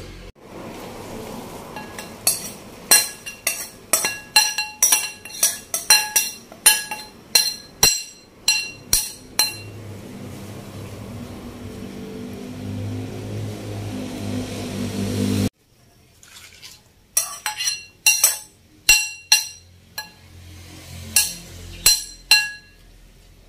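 A metal spoon clinking repeatedly against the pan and a ceramic bowl, about two sharp ringing taps a second, while moringa leaves are added to a simmering tamarind fish soup. Between two runs of clinks, a steady low noise builds for several seconds and then cuts off suddenly.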